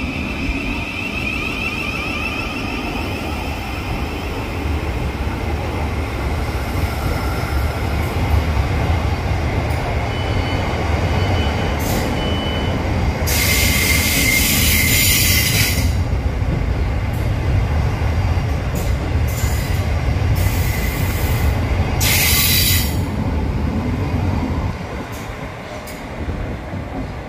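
Class 707 electric multiple unit pulling out of the platform and running past close by with a steady low rumble of wheels on rail that builds as it gathers speed. There is a long bright hissing squeal about halfway through and two shorter ones a few seconds later. The sound drops away near the end as the last car passes.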